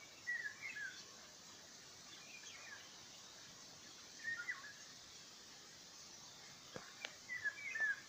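A songbird singing short chirping phrases, four times about two seconds apart, over a faint steady outdoor background. Two sharp clicks come just before the last phrase.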